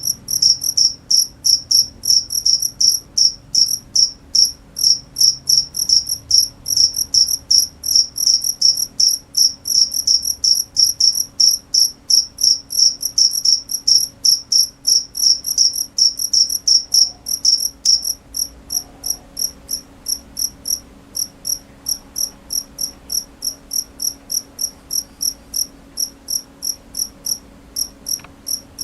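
A cricket chirping steadily: short, high, single-pitched chirps repeated about three times a second, a little quieter after about two-thirds of the way through.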